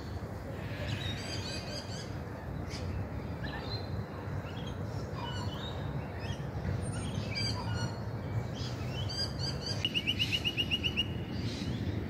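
Several wild birds calling and singing: short chirps and whistled phrases scattered throughout, with a quick run of about eight even notes near the end, over a steady low rumble.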